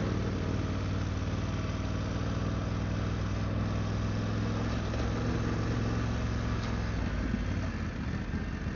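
BMW F900GS parallel-twin engine running at steady revs while riding a dirt trail, over a haze of tyre and trail noise.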